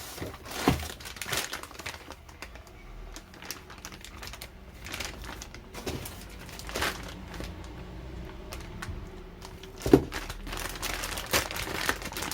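Irregular clicks, knocks and rustling of tools and parts being handled during hands-on car repair work, with one sharp knock about ten seconds in.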